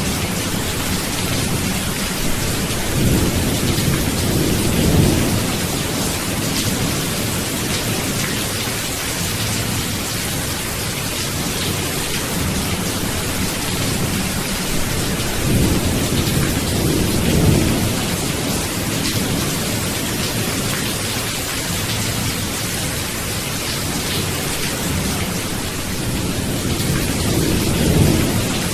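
Steady rain hissing, with low rolling thunder swelling up three times: a few seconds in, just past halfway, and near the end.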